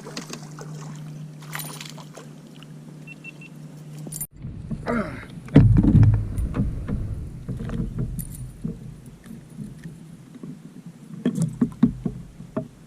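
Knocks and rattles in a solo canoe as a small largemouth bass is fought and landed. The loudest cluster of low thumps comes about five to seven seconds in, with scattered sharp clicks and knocks after it.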